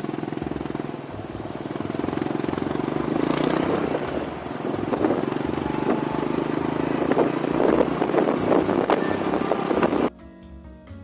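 A vehicle engine running through the exhaust muffler under test while driving, a steady note that grows gradually louder. From about halfway there is added crackling. The sound cuts off abruptly a second before the end.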